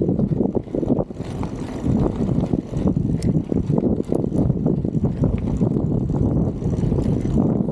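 Strong wind buffeting the microphone of a camera on a moving bicycle: a rough, gusting low rumble that dips briefly about a second in.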